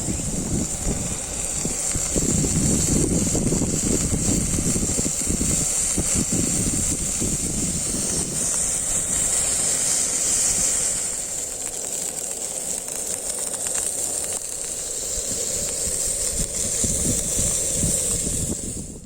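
Steady high-pitched hiss of cooking on a compact camping gas burner, with uneven wind rumble on the microphone that is stronger in the first half. The hiss cuts off suddenly at the end.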